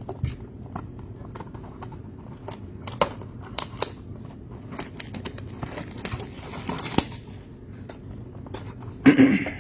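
Trading-card packaging being handled: scattered small clicks and crinkling of cardboard and plastic pack wrappers, with a louder rustle just after nine seconds in.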